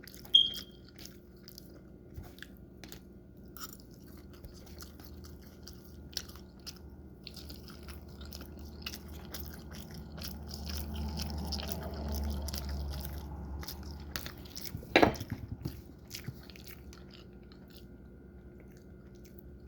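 Close-up chewing and biting of soft waffles, with many small wet mouth clicks. Two sharp knocks, one just after the start and one near the three-quarter mark, and a low rumble for several seconds in the middle.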